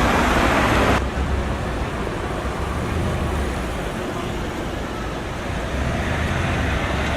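Audi R8 engine and exhaust: a loud, full exhaust note that cuts off suddenly about a second in, followed by a steady low idle rumble that grows a little louder near the end.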